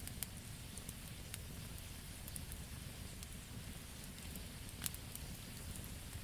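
Wood burning in a campfire and crackling: scattered sharp pops and ticks over a steady low noise, with the loudest pops near the start and about five seconds in.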